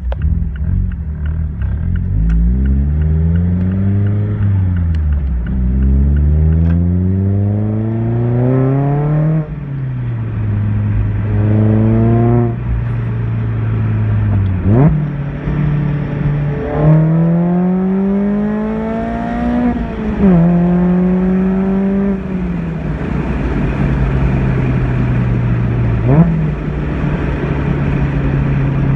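Mazda ND Miata four-cylinder engine, fitted with a JDL full exhaust and OVT stage 2 cams, accelerating through the gears. The note climbs in pitch and drops at each upshift, with steadier cruising stretches and two quick throttle blips, one about halfway through and one near the end.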